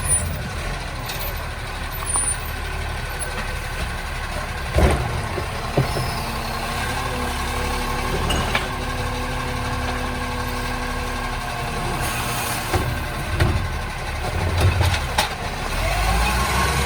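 Recycling garbage truck running, its engine rumbling steadily, with a steady tone through the middle stretch and several sharp clanks at uneven intervals.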